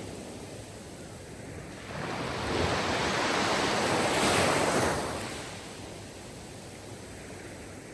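Sea waves on a shore. One wave swells up about two seconds in, is loudest around four seconds, and washes away by about five and a half seconds, with quieter surf before and after.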